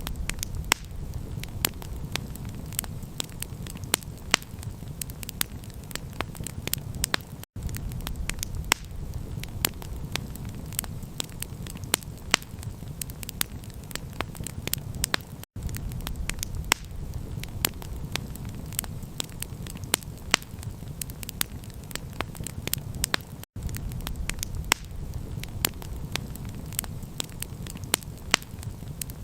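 Campfire crackling, with many sharp pops and snaps over a steady low rumble. The sound cuts out for an instant three times, about eight seconds apart.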